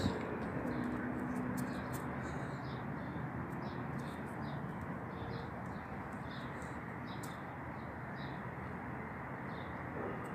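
Small birds chirping in quick, repeated short notes over a steady background hiss.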